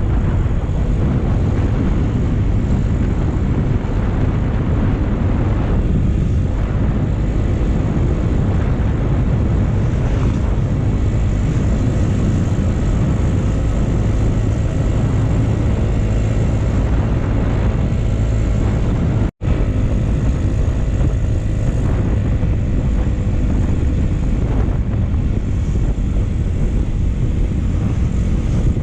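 Motorcycle on the move at a steady speed: engine running under a heavy, even rush of wind noise. The sound cuts out for an instant about two-thirds of the way through.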